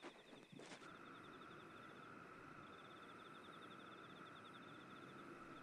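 Faint night insect chorus: a rapid, evenly repeating chirp over a steady high hum, with a soft click or two about half a second in.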